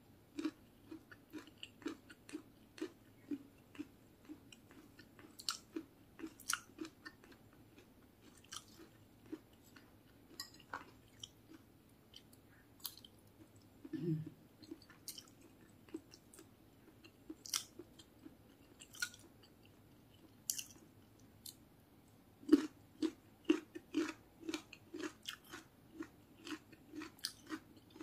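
A person chewing a mouthful of fried rice and fried side dishes close to the microphone, about two chews a second, with scattered sharp clicks.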